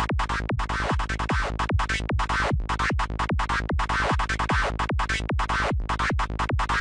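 Dark FM-style psytrance lead synth from Native Instruments Massive, put through tube distortion, playing fast, short repeated notes over a low kick that falls in pitch with each hit, about two and a half beats a second (150 BPM).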